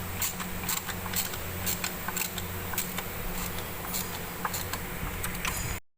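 Scattered light clicks and taps of hand tools on metal while the rebuilt engine is being mounted in the car, over a steady low hum. The sound cuts out abruptly near the end.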